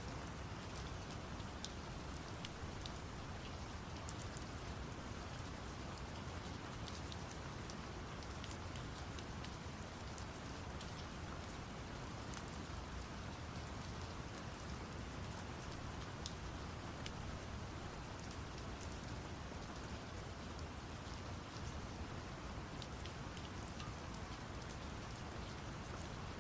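Steady rain with scattered sharp drop ticks, layered over brown noise, a deep, even hiss. The sound holds steady throughout, with no changes.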